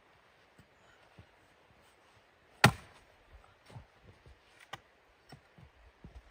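A single sharp knock about two and a half seconds in, like a hard strike on wood, among faint scattered clicks and taps.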